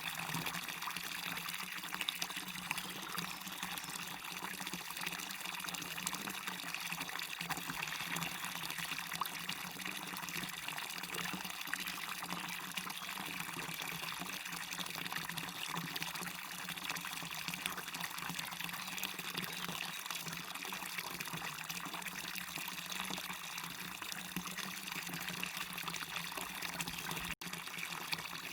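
Small waterfall splashing and running steadily: a continuous hiss of falling water over a steady low hum. The sound drops out for an instant near the end.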